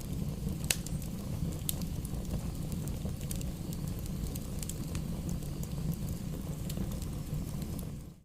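Wood fire burning in a fireplace: a steady low rumble of the flames with scattered crackles and pops from the burning logs, one sharper pop under a second in. The sound fades away right at the end.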